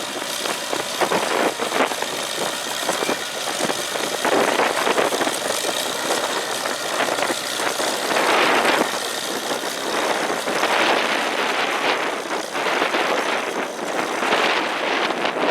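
A McCormick-Deering No. 50-AW hay baler at work, its International Harvester Cub four-cylinder engine running steadily under the load of baling. The machine noise rises and falls unevenly.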